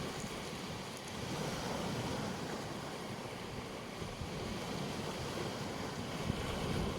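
Black Sea surf washing onto a beach in gentle swells, with a low rumble of wind on the microphone.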